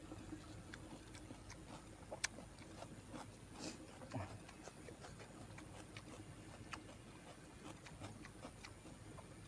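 Close-up eating sounds: chewing and mouth smacks, heard as scattered small irregular clicks, with one sharper click about two seconds in.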